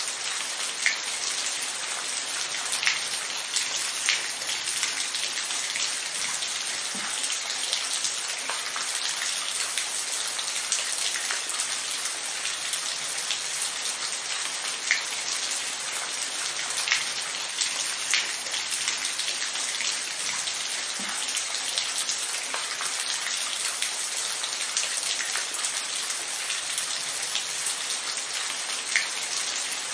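Steady rain falling, an even hiss with scattered individual drops ticking louder on a surface.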